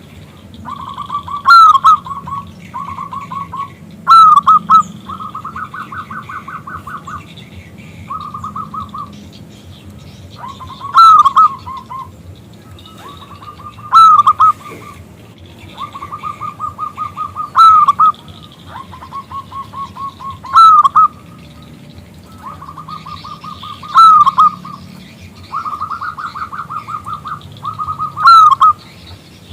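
Zebra dove (perkutut) cooing over and over: phrases of quick, evenly spaced notes, with a louder, rising-and-falling accented note every few seconds.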